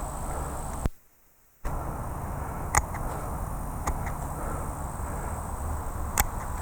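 Pruning shears snipping small branches: three short, sharp snips spread over several seconds against steady outdoor background noise. The sound drops out briefly about a second in.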